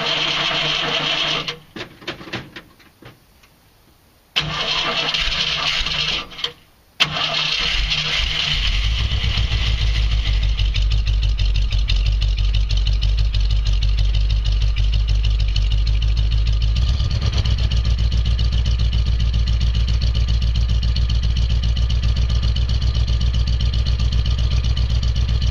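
1979 Jeep CJ5's AMC 304 V8 being cold-started: the starter cranks twice in short bursts without the engine catching. On a third crank about seven seconds in it fires and settles into a steady idle through aftermarket dual exhaust.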